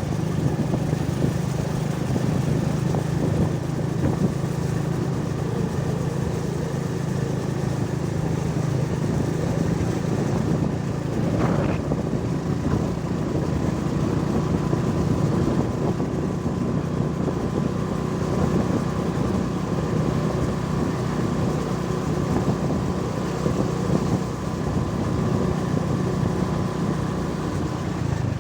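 Motor vehicle engine running steadily while on the move.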